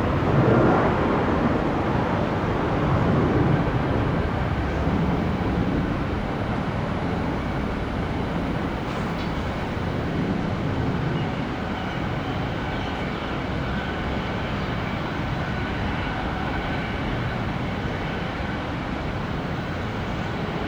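Airbus A350's Rolls-Royce Trent XWB jet engines giving a loud, even roar as the airliner lands, loudest in the first few seconds and then slowly easing off, with a faint high whine in it about halfway through.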